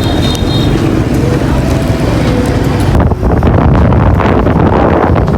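Outdoor traffic noise, then about three seconds in, heavy wind rumble on the microphone takes over.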